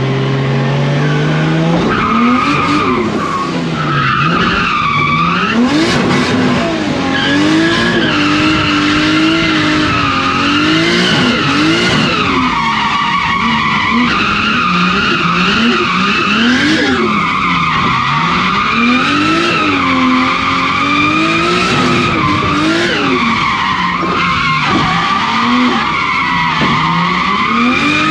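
Drift car sliding through corners: the engine revs rise and fall sharply every couple of seconds under throttle changes, over long, wavering tyre squeal.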